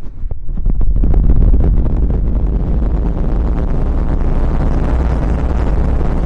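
Close-miked rubbing and scratching on the microphone, ASMR-style: a dense, crackly scrubbing noise that swells about a second in and then carries on steadily.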